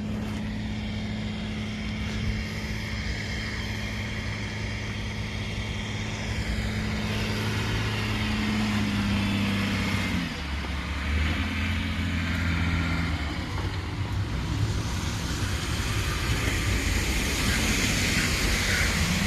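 Car engine running with a steady low hum and road noise; the hum shifts in pitch about ten seconds in.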